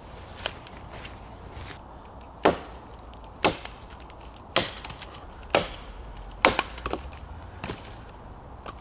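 Wood being chopped or split: a series of sharp, cracking blows about once a second, seven in all.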